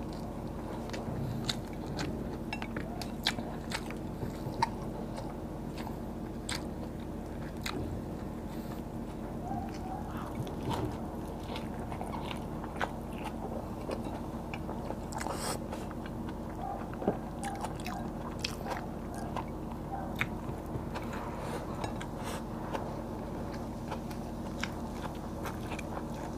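Close-miked chewing and crunching of fried tilapia and rice, with irregular sharp mouth clicks and smacks over a steady low hum.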